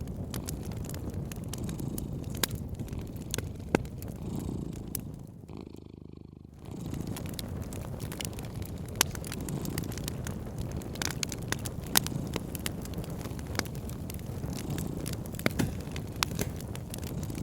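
A cat purring, a steady low rumble, with the sharp pops and crackles of a wood fire scattered through it. The sound dips briefly about six seconds in.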